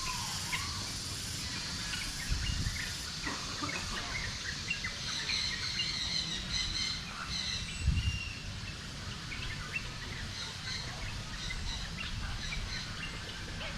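Many birds chirping and calling, with short overlapping chirps and a few longer whistled notes over a steady background hum. Two low thumps come about two and a half and eight seconds in.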